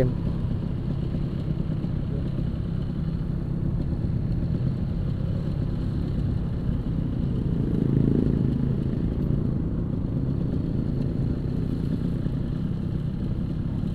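Motorcycle engine running steadily on the move, with road and wind noise; the sound swells briefly about eight seconds in.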